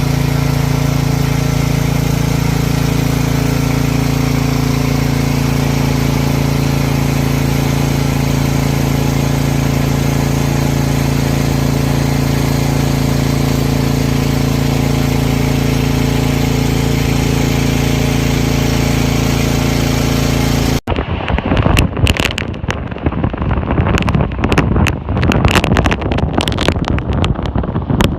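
A motor hums steadily at one unchanging pitch for about twenty seconds. It cuts off suddenly, giving way to wind buffeting the microphone in irregular gusts.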